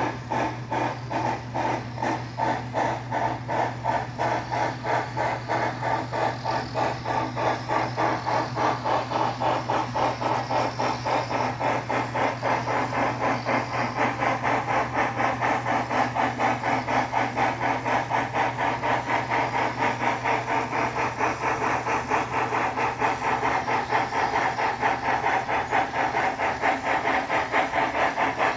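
Steam-locomotive exhaust chuffing from the TCS WOW sound decoder's speaker in an HO-scale brass 2-6-6-2 model, a rapid, even beat as the engine runs. A steady hum from the model's original open-frame motor runs underneath and drops away near the end.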